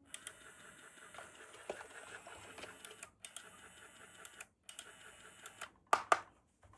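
Small plastic toy pieces being handled, giving scattered light clicks and taps, with two sharper clicks close together near the end.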